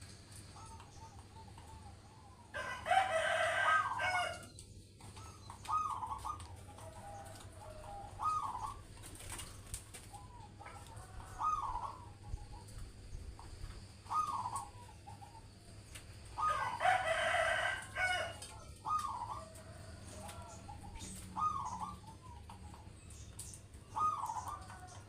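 Zebra dove (perkutut) cooing in short repeated phrases every couple of seconds. Twice, about three seconds in and again about seventeen seconds in, a louder, longer bird call rises over them.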